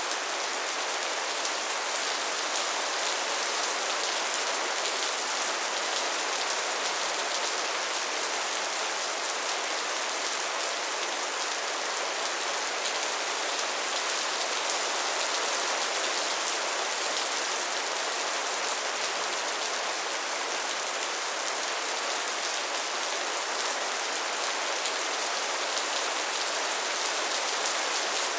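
Steady soft rain falling on a surface, an even hiss of many fine drops with no thunder or other sounds.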